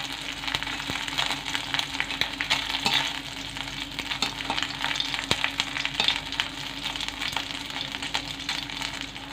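Dried red chillies and pieces of dried Bombay duck (loitta shutki) sizzling and crackling in hot mustard oil in a karahi, with a spatula stirring and scraping them around the pan. A faint steady low hum runs underneath.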